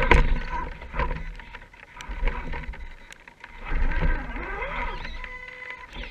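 Radio-controlled scale rock crawler's electric motor and gear drivetrain whining, its pitch wavering up and down with the throttle, with scattered clicks and knocks.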